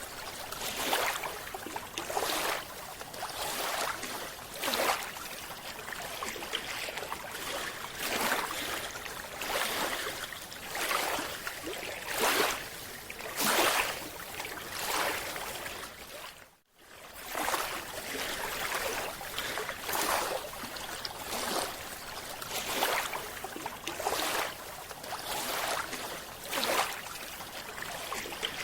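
Water noise swishing in surges about once a second, with a short cut-out about two-thirds of the way through.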